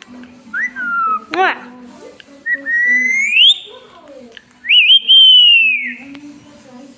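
Pet parrot whistling. It gives a short falling whistle and a quick squeaky call, then two long clear whistles: one rising, and one held high before it falls away.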